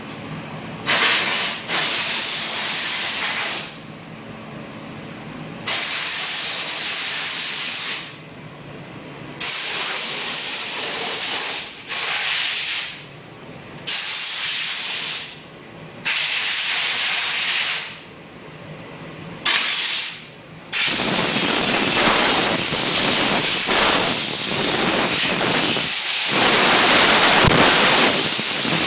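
Steam cleaner wand spraying pressurised steam with a loud hiss, switched on and off in bursts of one to three seconds, then held on without a break for the last several seconds.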